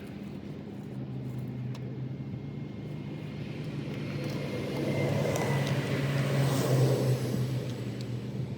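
A motor running steadily with a low hum, getting louder about five seconds in.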